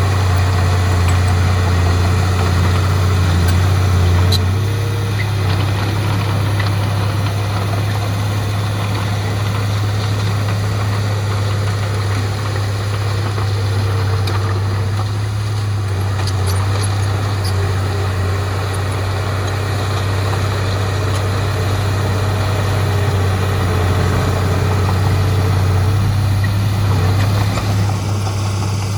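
Heavy diesel engine of earthmoving machinery running steadily with a deep low hum, its note shifting slightly and easing off about four seconds in.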